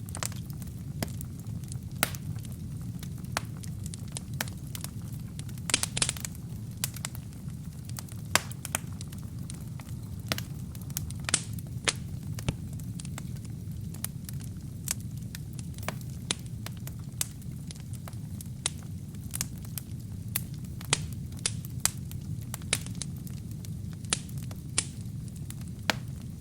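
Wood fire crackling: irregular sharp pops and snaps from burning logs over a steady low rumble of the flames.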